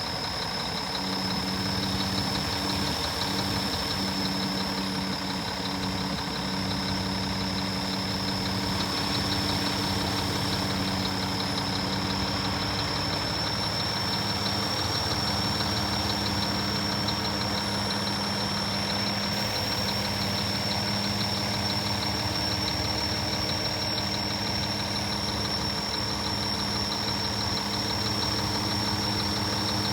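Scania R480 truck's six-cylinder diesel engine idling steadily.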